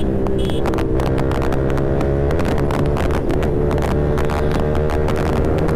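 Yamaha R15 V4's 155 cc single-cylinder engine running through a full-system aftermarket exhaust at a fairly steady riding speed, the note shifting slightly about two seconds in. Wind buffets the helmet microphone, and a short high beep sounds about half a second in.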